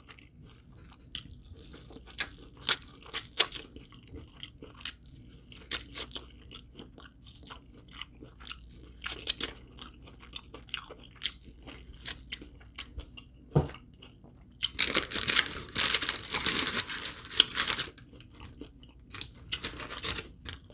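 A person chewing and crunching corn: a string of short, sharp crunches, with a longer, denser stretch of crunching about fifteen seconds in.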